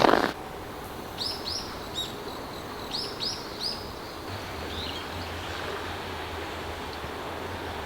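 A small bird chirping: a run of short, high, down-slurred chirps in the first four seconds and a fainter one a second later, over steady outdoor background noise. A low steady hum comes in about four seconds in.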